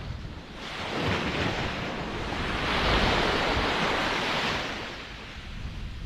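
Ocean surf: a wave washes in, swelling about a second in, peaking around three seconds and fading away near the end, with gusty wind rumble on the microphone underneath.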